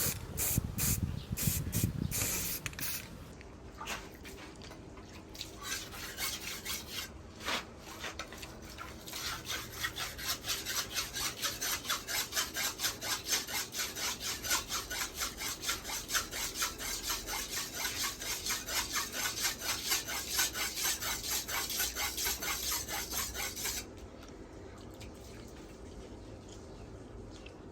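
Machete blade being sharpened by hand on a wet whetstone. A few scattered strokes come first, then a steady run of rapid back-and-forth scraping strokes, about three or four a second, which stops abruptly near the end.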